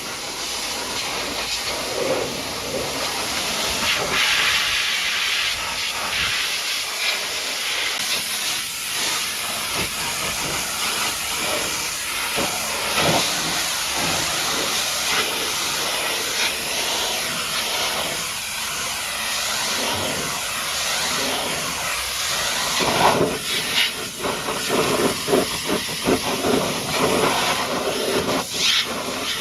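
High-pressure water jet spraying mud off a dump truck, a steady loud hiss of spray. Near the end it turns choppy and spattery, as the jet moves across the surface or stops and starts.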